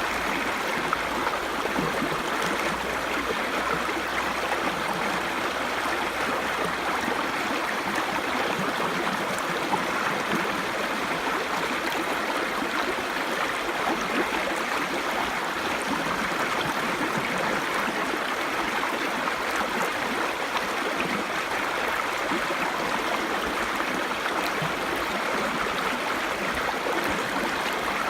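Small stream babbling steadily, an even rush of running water with no breaks.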